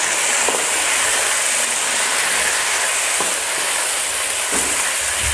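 Marinated chicken pieces and chopped garlic sizzling in hot oil in a nonstick kadai, with a steady frying hiss and a few light taps of a wooden spatula as it is stirred.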